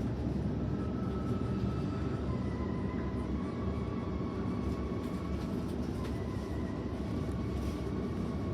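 Sydney Trains Waratah B-set electric train heard from inside the carriage while running between stations: a steady rumble of the wheels on the rails, with a faint high whine from the traction equipment that shifts pitch slightly about two to three seconds in.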